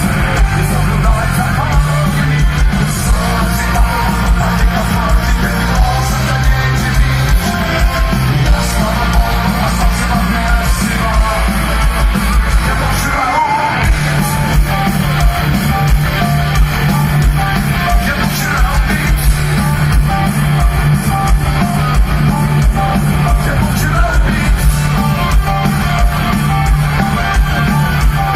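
Rock band playing live at full volume, with guitars, bass and drums and a singer's voice over them. The low bass drops out for a moment about halfway through, then comes back in.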